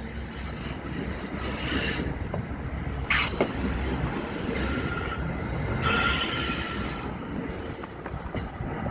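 EXO commuter train rolling past on steel rails: a steady low rumble of wheels, with a few sharp clicks about three seconds in and a thin wheel squeal around the middle.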